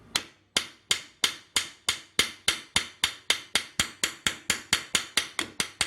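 Ball-peen hammer tapping rapidly on the rivet pin of a motorcycle clutch basket, metal on metal: about twenty short, ringing strikes, speeding up slightly from about three to four a second. The pin is being peened over again to tighten a loose basket that clunks and rattles.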